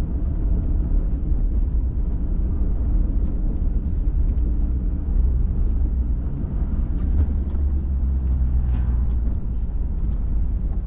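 Off-road pickup truck driving on an unpaved forest road, a steady low rumble of engine and tyres, slowing for a right-hand turn.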